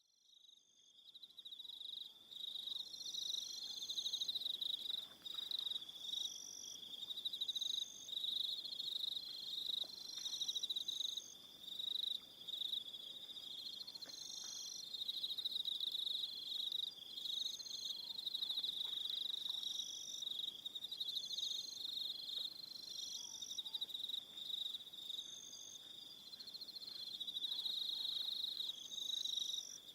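Evening chorus of crickets: a steady, high, continuous trill, with a second, higher chirping song coming in short bursts every second or two. It fades in from silence over the first few seconds.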